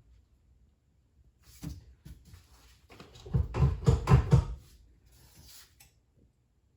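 Knocks and clanks of parts and tools being handled, with a quick run of heavy thuds from about three to four and a half seconds in.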